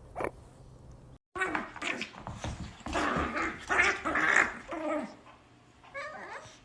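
A dog vocalizing: a run of rough growling and barking sounds starting about a second in, then a shorter bout near the end.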